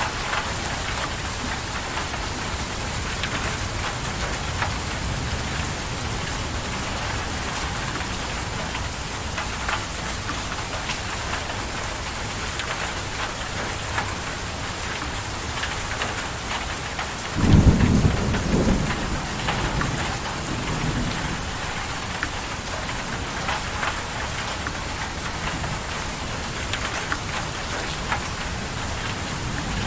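Steady rain falling, with scattered individual drops ticking. About halfway through, a sudden low rumble of thunder comes in twice in quick succession and fades away over a few seconds.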